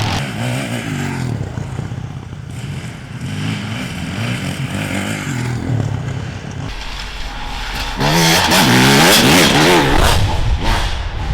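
Enduro motorcycle engines revving up and down through the gears as the bikes ride past. The loudest one passes close about eight seconds in.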